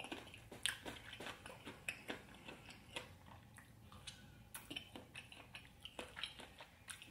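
Close-miked chewing and mouth sounds of fried chicken in spicy sauce being eaten: an irregular run of soft wet clicks and smacks, several a second, with fingers being licked.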